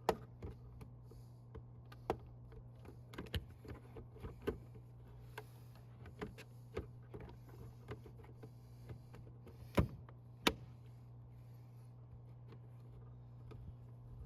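Scattered plastic clicks and taps from the mirror glass being handled and pressed back onto a 2019 Toyota Tundra's power-folding side mirror, with two sharper clicks about ten seconds in, over a steady low hum.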